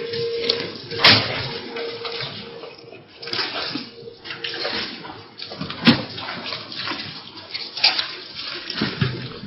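Heavy storm rain heard from inside the house, a steady rushing noise with a few sharp knocks.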